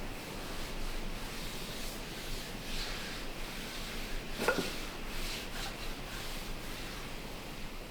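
Sanding on the faired wooden hull: an uneven, scratchy rubbing, with a short squeak about halfway through.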